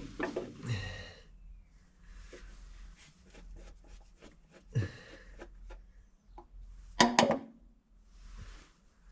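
Hand tools clicking and knocking against metal parts of an old truck engine, with louder clanks about five seconds and seven seconds in.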